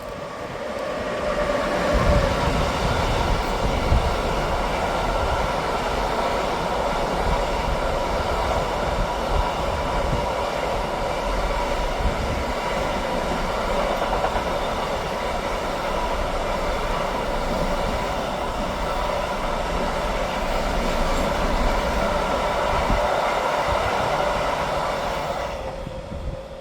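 A train passing by: the noise builds over the first two seconds, holds steady with a constant whine over the rumble of the wheels, then drops away about a second before the end.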